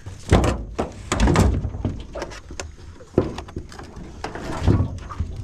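Irregular thumps and rattling knocks from a crab pot being shaken and handled in a small boat to get a mud crab out of it.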